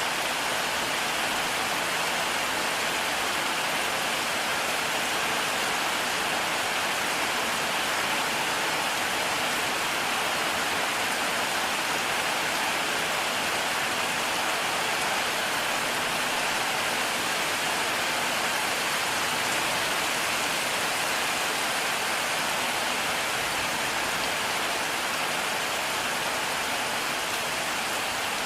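Heavy rain falling steadily, an even unbroken hiss with no thunder clap.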